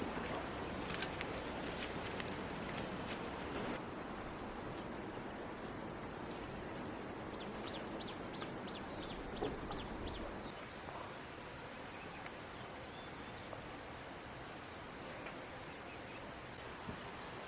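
Rural ambience: insects buzzing in steady high tones over a soft background hiss, with a run of short bird-like chirps about halfway through.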